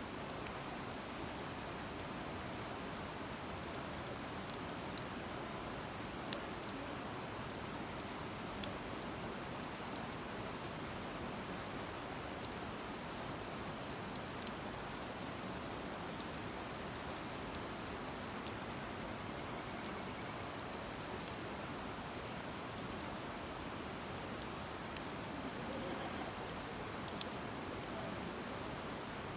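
Wood fire crackling in a fire stand, with scattered sharp pops over a steady hiss.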